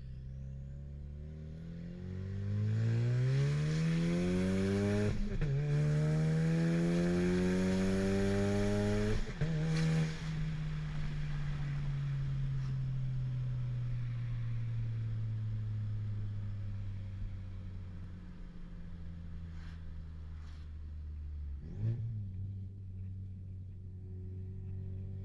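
Ford Mustang EcoBoost's turbocharged 2.3-litre four-cylinder, heard through a catless downpipe with no rest of the exhaust, accelerating hard. The pitch climbs, drops at an upshift about five seconds in and climbs again. After about nine seconds it lets off, and the note falls slowly, settling to a steady low note near the end.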